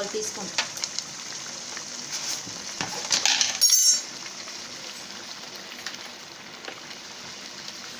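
Chicken and masala sizzling steadily in a metal pan, with the light clink of a spoon against the pan now and then. A louder clatter comes a little less than three seconds in and lasts about a second.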